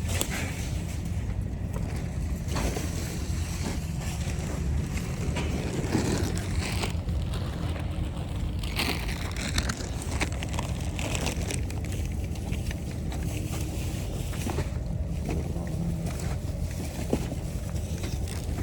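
Steady low rumble of a car driving, heard from inside the cabin, with a few faint knocks and clicks.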